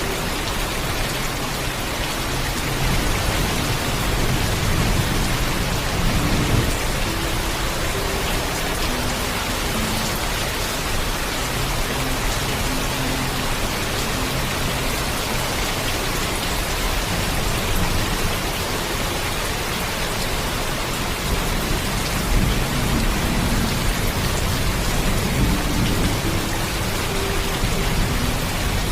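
Heavy rain falling steadily, with low rumbles of thunder swelling about six seconds in and again near the end.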